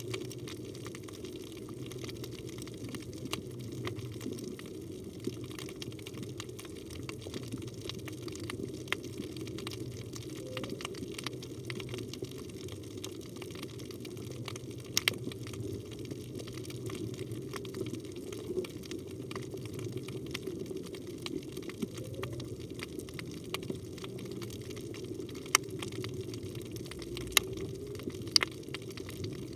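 Underwater ambience recorded on a phone in a waterproof housing: a steady murmur of moving water, with scattered sharp clicks and crackles throughout and a few louder clicks near the end.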